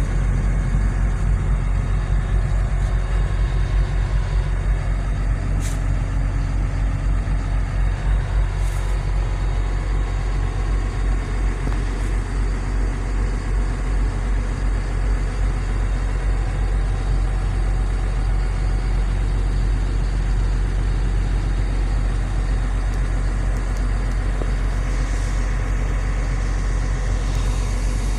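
Cummins diesel engine of a Liugong CLG922E crawler excavator running at a steady speed, a low, even hum with a few faint clicks.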